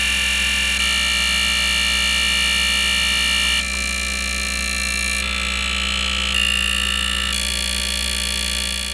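Direct-injection petrol fuel injectors from a 2012 Mazda CX-5 being pulsed on an injector test bench, a loud, rapid, steady buzzing whose tone shifts abruptly every second or two.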